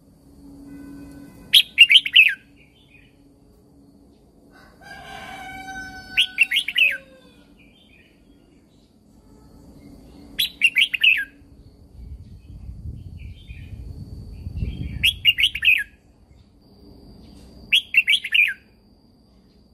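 Red-whiskered bulbul singing: five short, loud, quick warbled phrases spaced a few seconds apart, with a fainter, lower call that falls away at its end about five seconds in.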